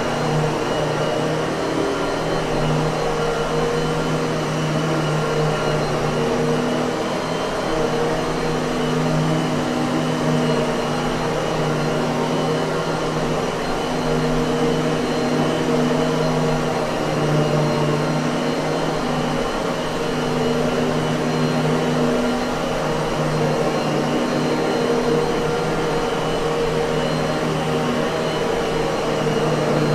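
Miele vacuum cleaner running steadily, a constant motor whir with a thin high whine over it; its lower tones waver slightly every few seconds.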